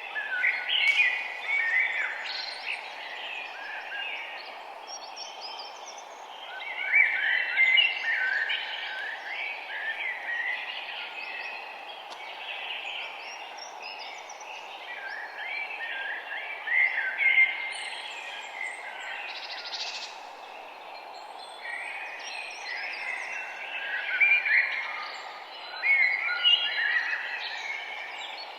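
Several small songbirds singing and chirping in overlapping bursts, over a steady low hiss of background noise.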